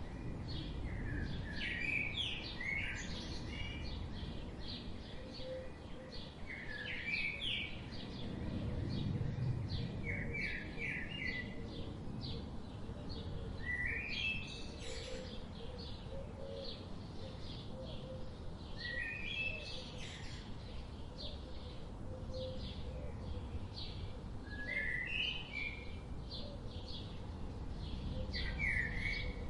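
Songbirds singing in a forest: one bird repeats a short phrase of sliding notes every few seconds while others chirp continually in high short notes. A steady low rush of river water runs beneath.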